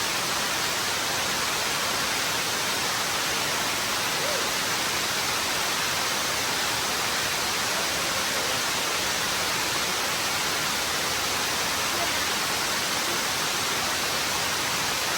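Waterfall rushing as a steady, unbroken hiss.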